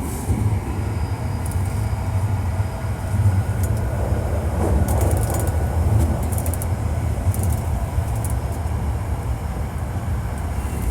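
Hankyu 1300 series electric train running through a subway tunnel, heard from inside the car: a steady low rumble of wheels and motors with a faint tone and light clicks over it. This car is known for an unusual running noise.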